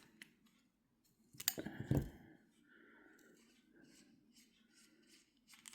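Small metal parts of a fishing reel clicking and scraping as they are handled and a nut is worked off, with a louder knock about two seconds in.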